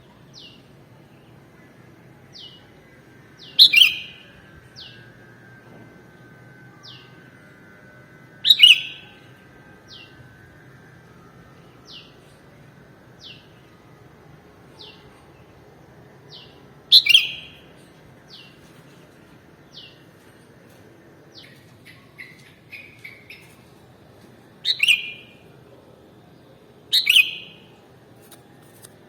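Sooty-headed bulbul (kutilang) calling: five loud, sharp notes that fall in pitch, spaced a few seconds apart, with fainter short chirps about every second or two in between.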